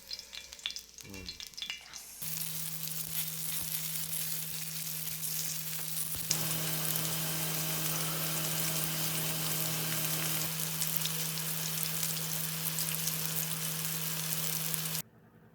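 Food frying in oil on a cast-iron cauldron-lid griddle (sotttukkeong), a steady sizzle that starts about two seconds in and cuts off suddenly near the end.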